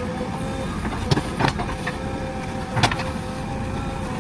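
JCB backhoe loader's diesel engine running steadily with a high steady whine, and three sharp clanks, two close together about a second in and one near three seconds.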